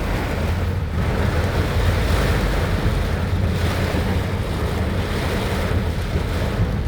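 Heavy rain and strong wind: a steady rushing noise with a deep rumble of wind buffeting the microphone.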